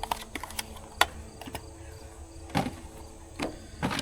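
A handful of light, irregular clicks and knocks of parts being handled and set down.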